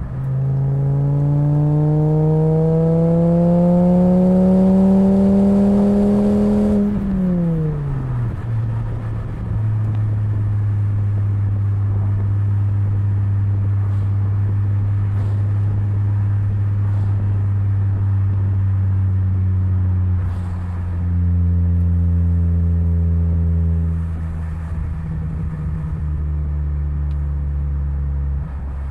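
Naturally aspirated inline five-cylinder engine of a Volvo V70 2.4 heard through a Borla XR1 muffler, revving up steadily under acceleration for about seven seconds. The revs then drop quickly off the throttle, and the engine settles to a steady drone at constant revs. About twenty seconds in it steps to a louder, different steady note.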